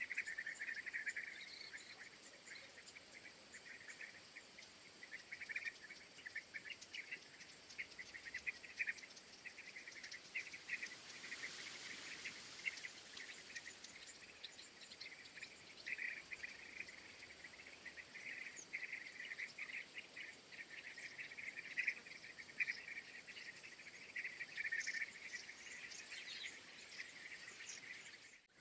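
Insects chirping in a dense, rapid pulsing chorus. A soft hiss swells briefly about halfway through.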